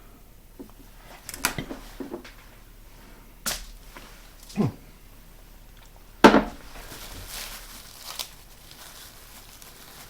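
A few separate knocks and clatters of things being handled and set down on a kitchen counter, about six in all, the loudest about six seconds in.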